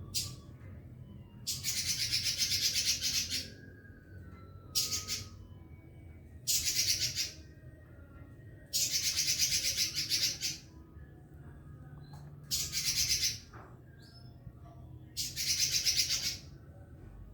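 Pekin robin (red-billed leiothrix) singing loudly, in about six rapid, trilling phrases of up to two seconds each, with short pauses between them.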